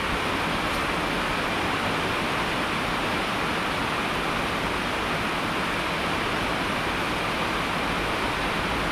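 Rain falling steadily: an even rushing hiss with no single drops or other sounds standing out.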